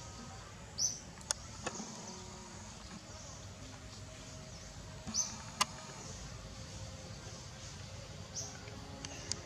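A bird in the forest giving short, high chirps three times, a few seconds apart, with two sharp clicks in between, over a steady outdoor hiss.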